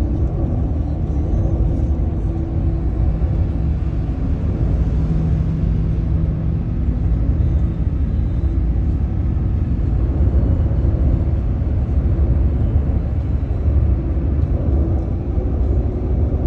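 Steady low rumble of a car driving: road and engine noise with no sudden changes.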